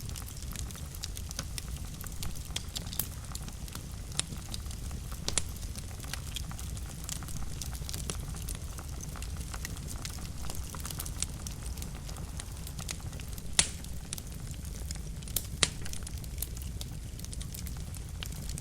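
Wood fire burning in a fireplace: a steady low rumble of flames with frequent crackles and a few sharper, louder pops.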